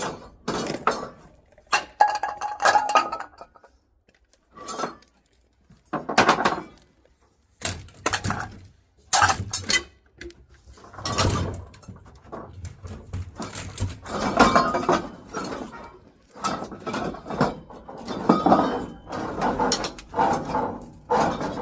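Metal objects clinking and clattering as they are handled and set down, a long string of irregular knocks and rattles.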